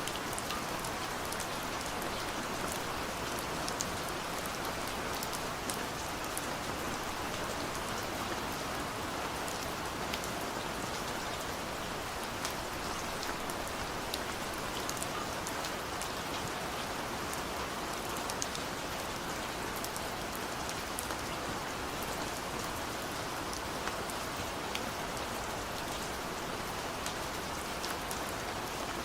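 Steady rain falling, a continuous hiss with many scattered drops ticking against a surface.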